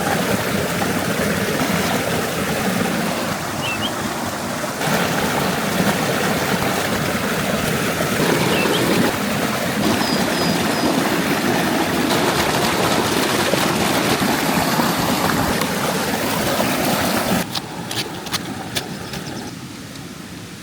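Steady rushing water noise, like a flowing stream, broken by abrupt cuts. Near the end it drops in level and a few sharp clicks and faint high chirps come through.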